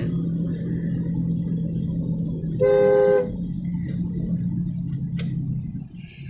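A car horn sounds one short honk of about half a second, about three seconds in, over the steady low hum of a car running.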